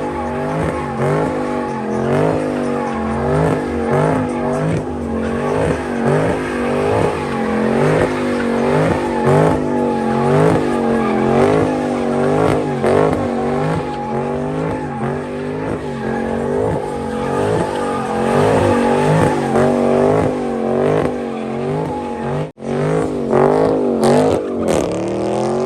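Car engine revving hard with tyre squeal, as at a burnout or donuts: the engine's pitch swings up and down about twice a second. The sound cuts out for an instant near the end.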